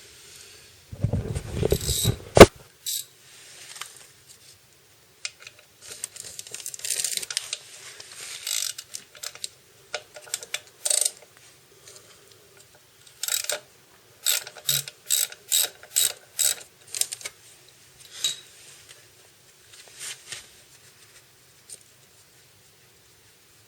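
Hand ratchet wrench clicking in short bursts of back-swings, with a heavier metallic clatter and one sharp clack about two seconds in. A run of quick, evenly spaced ratchet strokes comes near the middle.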